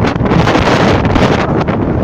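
Strong wind gusting across the microphone: a loud, unbroken rush of noise that surges and slackens from moment to moment.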